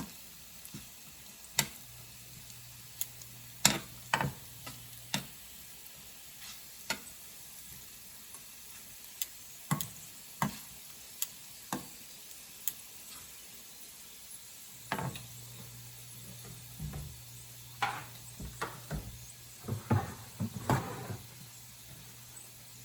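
Flatbread strips frying in hot olive oil in a small pot: a faint steady sizzle with irregular sharp pops and clicks, thickest near the end. A faint low hum comes and goes.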